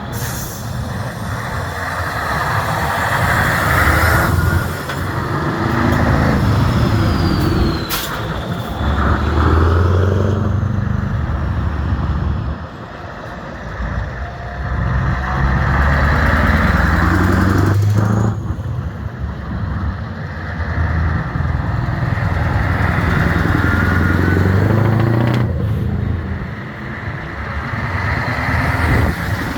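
Old truck engines running under load, their pitch climbing several times and then dropping away, as when accelerating and changing gear.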